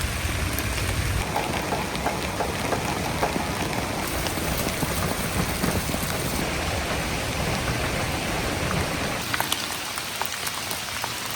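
Heavy rain pouring down: a steady hiss with sharp drop hits scattered through it, and a low rumble in the first second or so.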